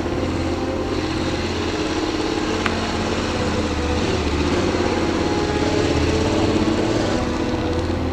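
Adventure motorcycle's V-twin engine running steadily under way.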